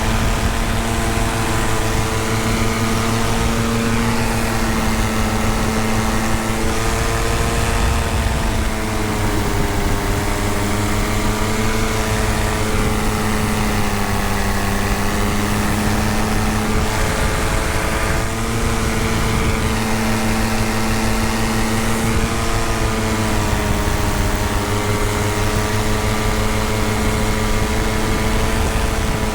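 Tandem paramotor engine and propeller running steadily in flight, its pitch sagging and rising gently every few seconds.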